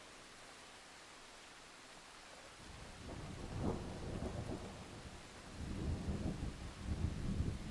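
Thunder rolling over a steady hiss of rain. The rumble comes in about two and a half seconds in and swells in two waves, the second still rumbling at the end.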